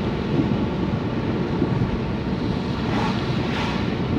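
Steady road noise inside a moving car on wet roads, mostly low rumble with hiss. A brief rise in hiss comes about three seconds in.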